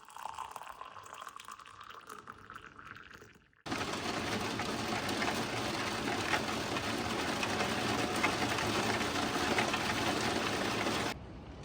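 Steady heavy rain, a dense even patter that cuts in suddenly about four seconds in and stops just as suddenly near the end, after quieter, fainter sounds at the start.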